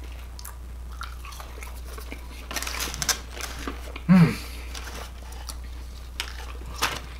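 A person chewing and crunching breaded fried shrimp, with a denser crunch about two and a half to three seconds in. A short voiced sound, the loudest in the stretch, comes about four seconds in.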